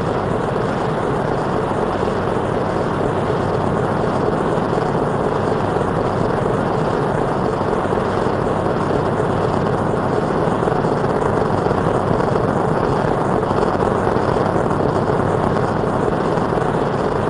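American Flyer model electric trains running on the layout: a steady, continuous rumble of motors and wheels on track.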